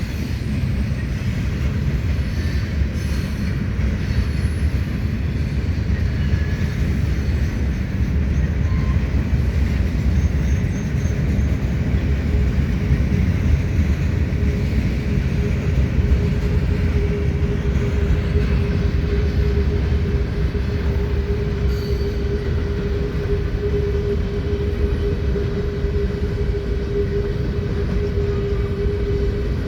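Heavy Norfolk Southern freight train rolling past, a steady rumble of wheels on rail. About halfway in, a steady wheel squeal sets in and holds.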